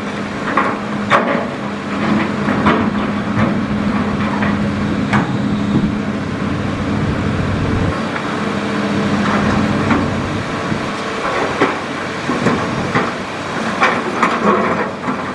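Hitachi Zaxis hydraulic excavator's diesel engine running steadily under load, with scattered sharp knocks and clatter from the digging.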